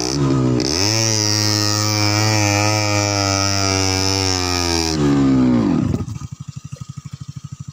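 Two-stroke Yamaha RX-Special motorcycle engine revving hard under load, held at high revs, then dropping back about five seconds in to a fast, even idle putter.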